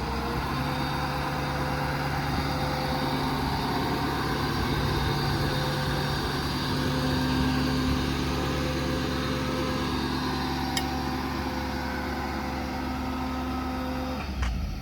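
Ford 6.7 Power Stroke V8 turbo-diesel in a 2021 F-550 idling steadily just after a remote start. The idle rises slightly about six seconds in, and the engine shuts off near the end.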